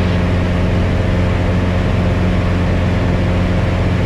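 Piper Cherokee 180's four-cylinder Lycoming O-360 engine and propeller droning steadily in cruise, heard inside the cabin, with an even low hum; the engine is new and in its break-in, run at high power.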